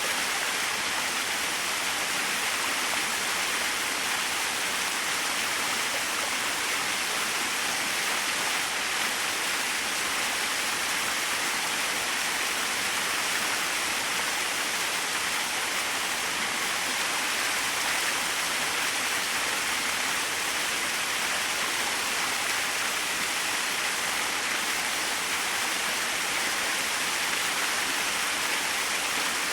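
Small waterfall splashing into a pool: a steady, even rush of falling water without a break.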